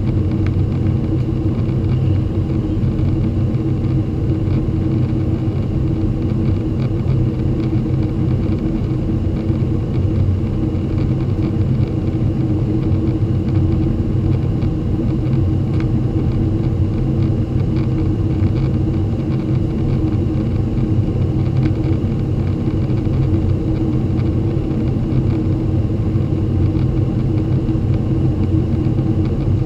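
Boeing 767-300 jet engines and airflow heard from inside the cabin during the departure: a steady low rumble with a constant hum.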